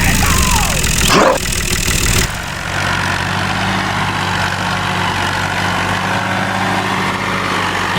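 Tractor engine idling with a steady low hum. Just after a second in there is a short sweeping sound, and a noisy layer cuts off abruptly a little after two seconds.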